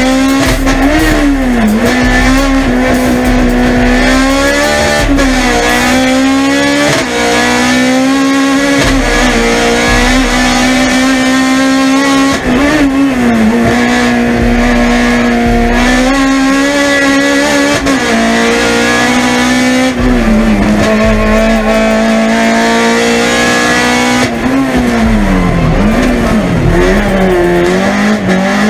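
Honda Civic EG race car's 1.6-litre naturally aspirated four-cylinder engine at high revs, heard from inside the cockpit. The revs dip briefly and climb back several times, with a deeper fall and climb back near the end.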